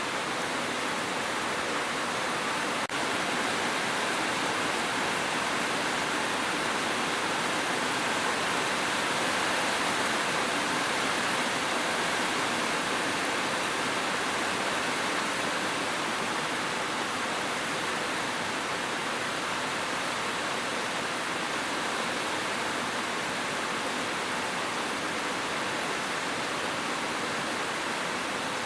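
Steady, dense hiss of heavy rain with no breaks in its texture, except for a brief dip in level about three seconds in.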